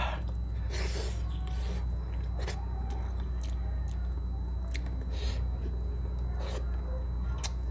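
Close-miked mouth sounds of a person eating paksiw na bangus (vinegar-stewed milkfish): wet chewing and lip smacks, with about half a dozen short sharp clicks spread through, over a steady low hum.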